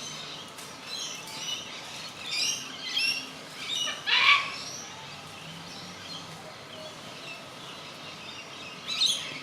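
Short parrot calls in a run of separate calls over the first four and a half seconds, the loudest about four seconds in, and one more just before the end.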